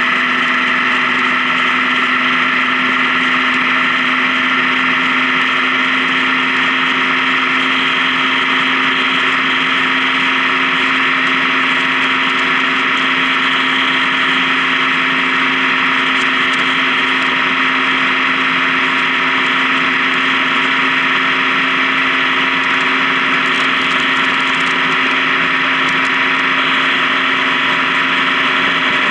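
Honda Gold Wing touring motorcycle running at a steady highway cruise: an even engine drone mixed with wind and road noise, with no change in speed.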